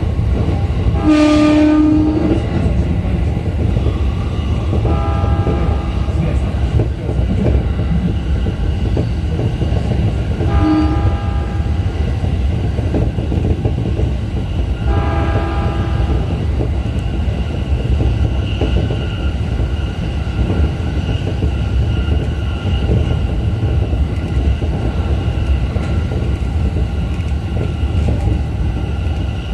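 JR East E233 series 5000 electric commuter train running, a steady rumble of wheels on rail heard from behind the driver's cab. A horn sounds briefly about a second in, and shorter, fainter pitched tones come again around 5, 11 and 15 seconds.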